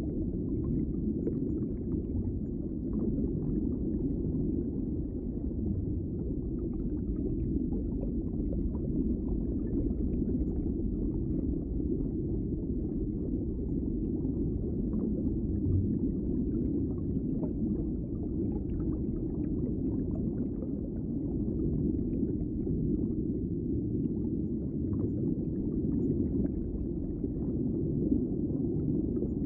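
Underwater ambience: a steady, deep rumbling wash of water with faint scattered crackles and pops.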